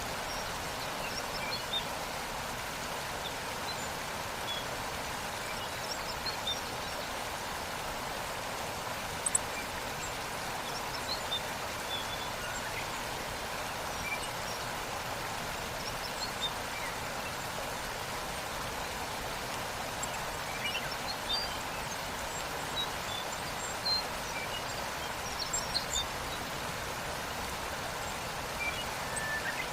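Waterfall rushing in a steady, even hiss, with short high bird chirps here and there over it.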